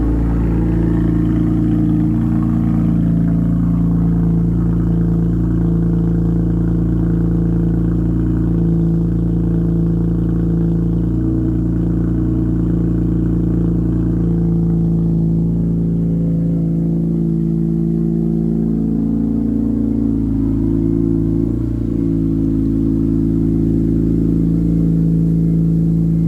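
BMW E46 M3's S54 straight-six idling steadily just after a cold start.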